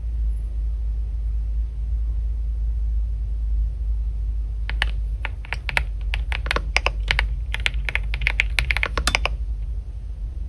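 Typing on a computer keyboard: a quick, uneven run of key clicks that starts about halfway through and stops shortly before the end, over a steady low rumble.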